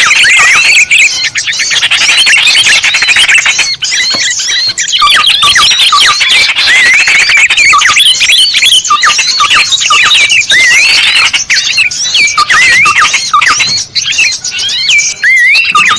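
A dense chorus of small birds calling over one another, with rapid chirps and trills sweeping up and down in pitch. It is a bird-lure recording, played to draw small birds in.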